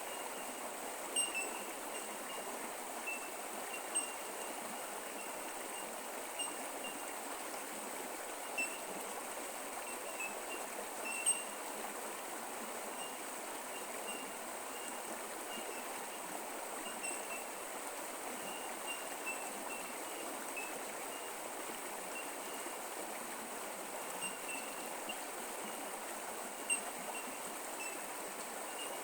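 Creek water running and trickling steadily over its bed, with short high-pitched ticks every few seconds.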